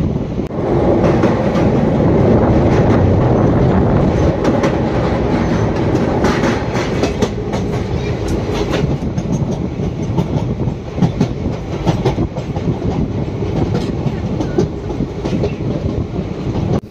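Indian Railways express passenger train running at speed, heard from beside a coach: a continuous rumble of wheels on the rails with irregular clicks and clatter.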